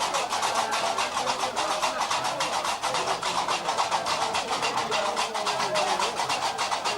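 Gnawa music: a fast, steady clatter of qraqeb iron castanets, several clacks a second, with voices faintly underneath.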